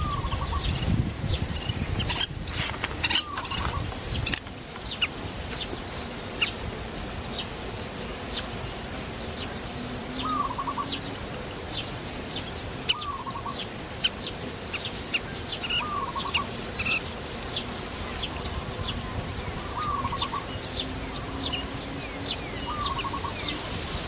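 Wild birds calling: a steady run of short, high chirps, several a second, and from about ten seconds in a lower call ending in a short trill, repeated every three seconds or so.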